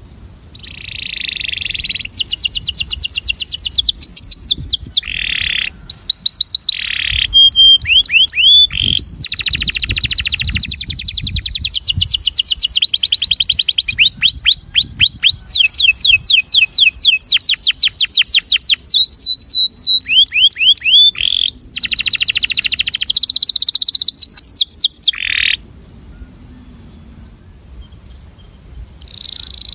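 Male domestic canary singing its courtship (attraction) song: long runs of fast repeated-note trills and buzzy rolls, breaking off about 25 seconds in and starting again at the very end.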